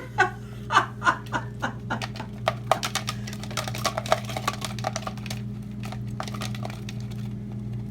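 Quick, irregular light clicks and taps, dense at first and thinning out after about six seconds, over a steady low electrical hum.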